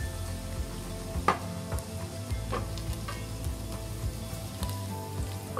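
Chopped mushrooms and onion sizzling in hot oil and butter in a pot while being stirred with a silicone spatula. A few sharper scrapes or taps of the spatula stand out, about a second in and again after two and a half seconds.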